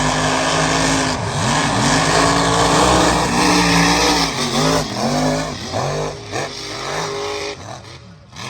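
Mega mud truck's engine running hard near full throttle, its pitch held high for a few seconds, then revving up and down again and again, fading near the end.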